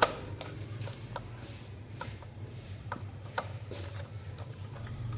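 Screwdriver unscrewing small screws from a car navigation head unit's screen panel: scattered sharp clicks and ticks, the loudest right at the start, over a steady low hum.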